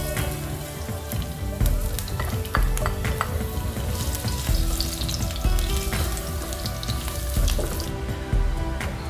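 Food frying in oil in a pan, sizzling steadily, with a utensil clicking and scraping against the pan as it is stirred. The sizzle drops away near the end.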